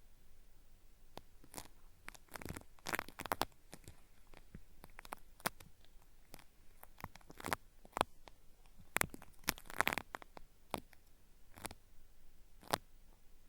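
A cotton swab rubbing and scraping at a binaural microphone's ear, making irregular crisp crackles like something being peeled away. The crackles come in clusters with short quiet gaps between them.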